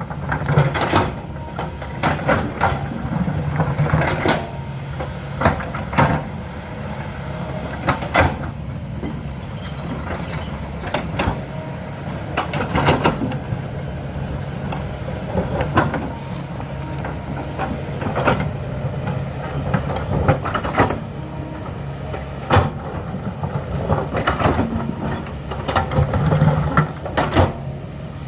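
Diesel engine of a heavy earthmoving machine running steadily while digging, with frequent irregular metallic clanks and knocks as it works soil and rock.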